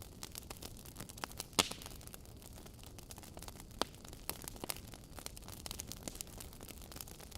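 Wood fire crackling: a stream of small snaps and pops over a low rumble of burning logs, with a sharp louder pop about a second and a half in and another near the middle.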